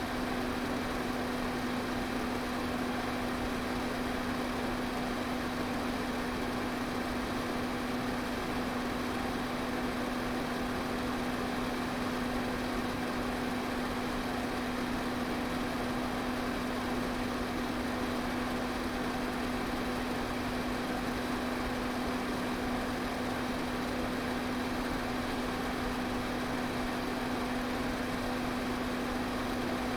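Electric pedestal fan running steadily: a constant rush of moving air over a steady motor hum.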